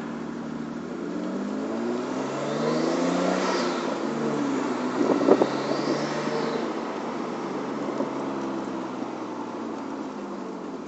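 Nissan Cefiro A31's RB25DET turbocharged straight-six accelerating, its revs climbing for about three seconds, dropping, climbing again and then easing off. A faint high whine rises and falls with the engine, the strange noise that shows up under acceleration, with a few knocks about five seconds in.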